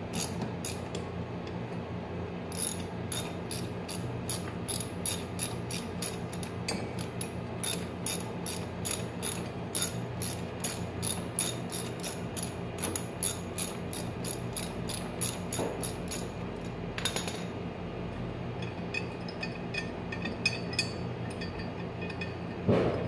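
Socket ratchet wrench clicking as the mower blade bolt is loosened, a steady run of several clicks a second that stops about seventeen seconds in.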